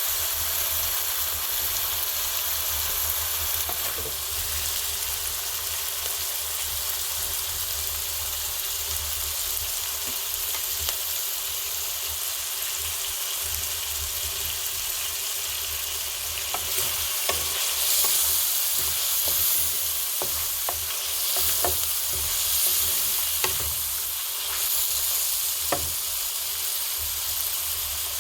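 Food frying in oil in a pot over a wood fire: a steady sizzle, with scattered sharp pops and crackles, more of them in the second half.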